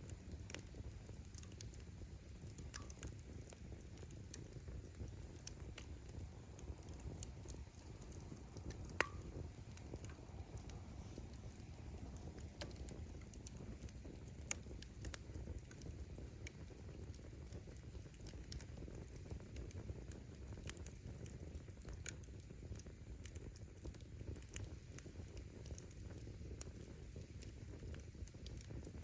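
Firewood burning in an open fire: a low steady rumble of flames with frequent small crackles, and a sharp pop of the wood bursting about nine seconds in, with a smaller one some five seconds later.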